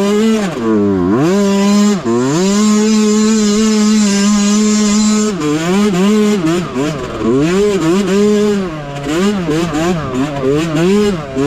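Mini bike's small engine revving under throttle: the pitch dips and picks up about a second in, holds steady and high for a few seconds, then rises and falls repeatedly from about halfway as the throttle is opened and closed.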